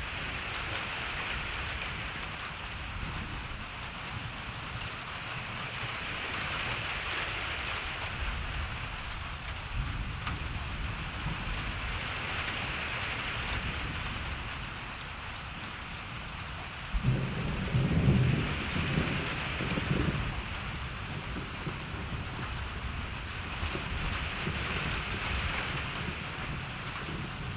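Steady rain falling, its hiss swelling and easing slowly. About two-thirds of the way through, a sudden low thunder rumble breaks in and rolls for roughly four seconds in two or three surges before dying away under the rain.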